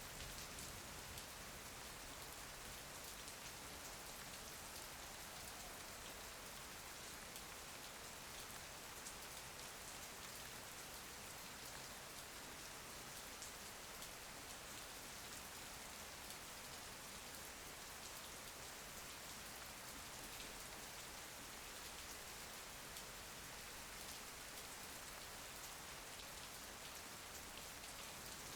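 Steady rain falling, a soft even hiss with fine patter of individual drops.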